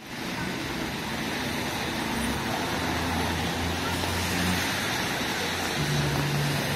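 Steady hiss of rain on a city street, under the low hum of traffic.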